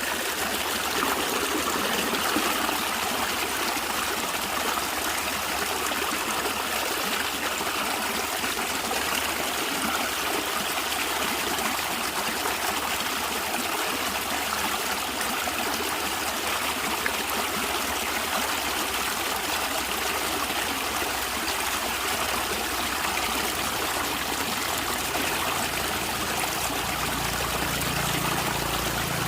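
A natural stream flowing and gurgling steadily over stones, a continuous rush of water.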